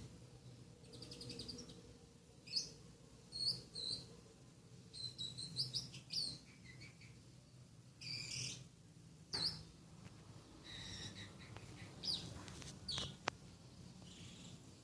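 Lovebird singing in short separate chirps and whistles that copy the song of a long-tailed shrike (cendet), with a faint steady hum underneath.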